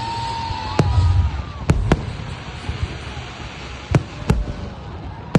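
Fireworks going off in a series of sharp bangs, about six spread over the stretch with two close pairs, over a low rumbling echo.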